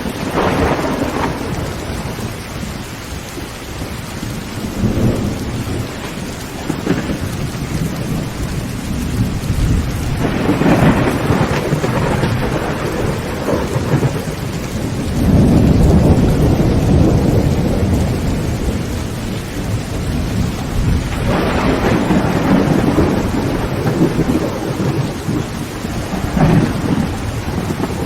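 Heavy rain falling steadily on a tin roof, with rolling thunder that swells several times, the longest and loudest rumble a little past halfway.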